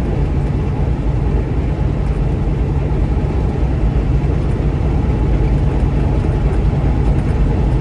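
Steady low engine and road noise inside a moving truck's cab.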